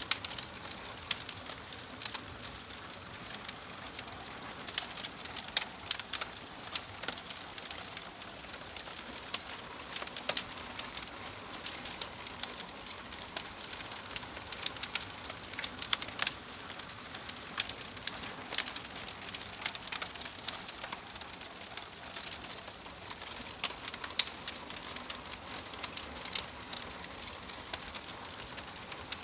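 Wood fire burning in a fireplace, crackling and popping: frequent sharp, irregular pops over a steady soft hiss.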